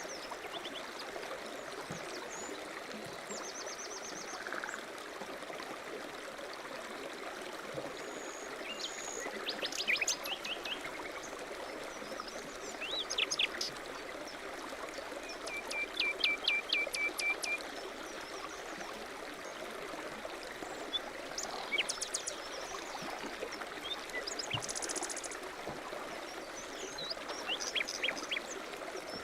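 Mountain stream running steadily, with several songbirds chirping and calling over it, including a rapid trill of repeated notes about halfway through.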